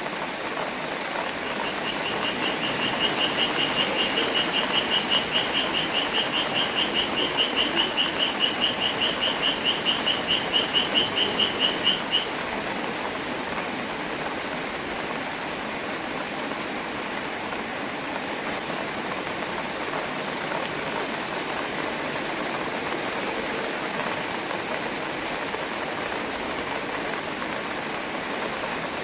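Steady rain hiss. From about a second in until about twelve seconds in, a high, rapid pulsed trill of about four pulses a second rides over it, from a frog or bird.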